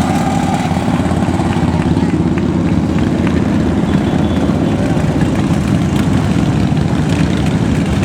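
A procession of many motorcycles riding past, their engines making a steady, loud, continuous rumble.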